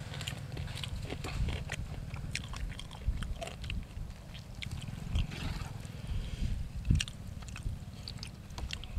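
Close-miked chewing of khanom jeen rice noodles in fish curry with raw vegetables, full of quick wet clicks, crunches and lip smacks.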